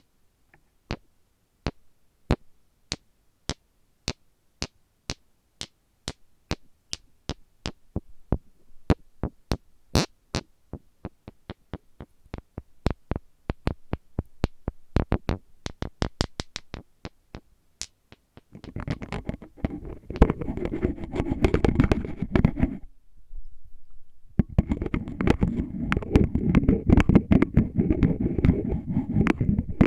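Crisp, separate taps on an oil bottle, sparse at first and then quickening to a few a second. About 18 seconds in they give way to dense scratching and rubbing on the bottle, which stops briefly and then resumes.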